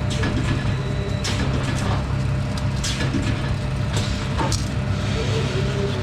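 A metal-working machine running in a sheet-metal duct workshop, with a steady low hum and hiss and scattered sharp clicks and knocks of metal.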